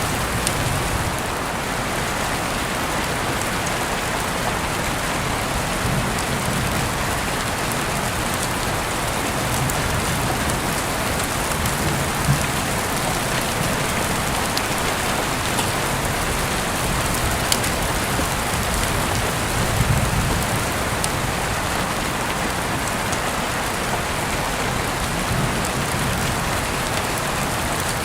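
Heavy rain heard through an open window: a steady, dense hiss of falling rain, with a few sharper drop ticks now and then.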